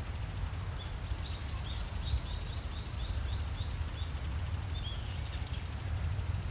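A small bird calling in a run of about a dozen short, high, falling chirps, roughly three a second, over a steady low rumble.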